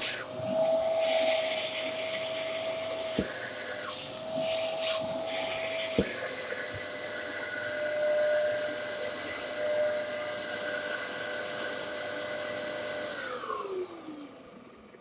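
Dyson DC07 bagless upright vacuum cleaner running with a steady high whine and rushing air, surging louder twice in the first six seconds. Near the end it is switched off and the motor's pitch falls away as it spins down.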